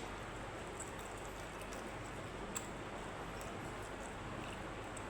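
Steady background hiss of room noise, with a faint short click about two and a half seconds in.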